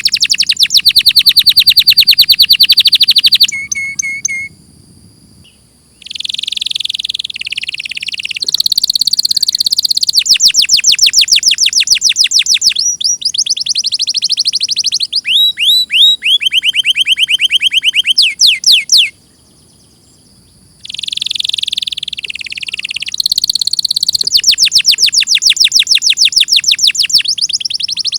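Domestic canary singing: long trills of very fast repeated high notes that change pace and pitch from phrase to phrase, broken by two short pauses.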